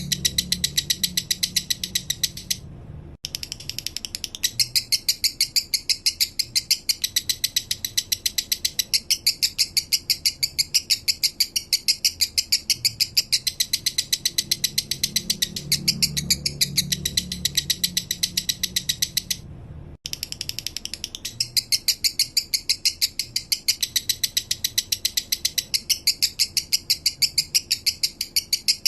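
Male lovebird singing its slow 'minor' song: a fast, even run of high chattering chirps that breaks off for a moment about three seconds in and again near twenty seconds.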